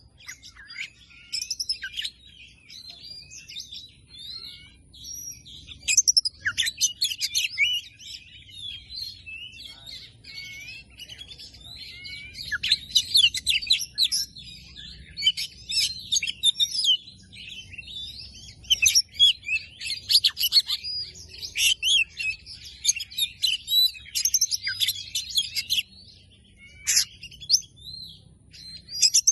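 Oriental magpie-robin (kacer) singing a fast, varied song of sharp whistles, chirps and trills, in bursts with short pauses. It is a lure recording of the kind played to set caged magpie-robins singing.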